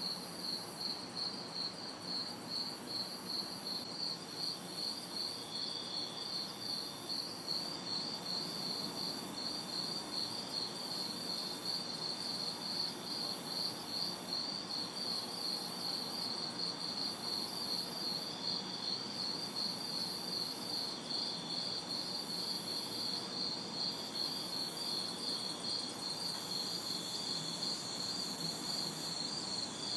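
Night chorus of crickets trilling steadily in a fast pulse, with a second, higher insect calling in regular bursts about a second long. A faint, even hum of distant city traffic lies underneath.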